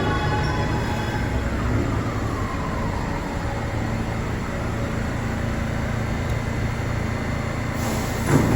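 New York City subway train in the station: its motors whine in several tones falling in pitch and fade over the first second or two, leaving a steady rumble of the train running on the rails. A sharp knock stands out about eight seconds in.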